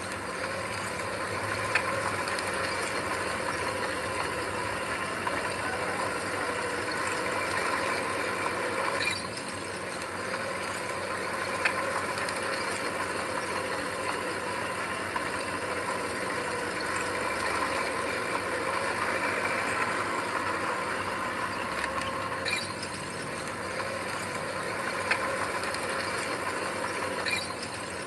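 Heavy earthmoving machinery running steadily, an engine with a whine in it, with occasional sharp metallic clicks and clanks. The level dips briefly twice.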